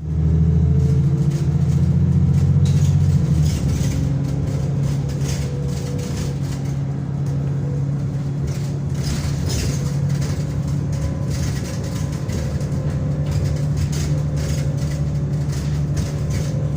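Diesel engine of a Wright-bodied VDL DB300 bus working hard, a loud steady low drone with rattling. It is loudest for the first three seconds or so, then eases to a slightly lower, steady pull.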